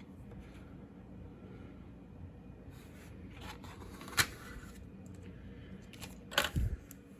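Plastic model-kit figure packaging being handled over a low steady hum: a sharp click about four seconds in, then two or three quick knocks a little after six seconds.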